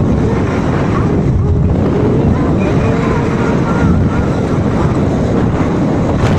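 Wind buffeting the microphone: a loud, steady low rumble with faint voices behind it.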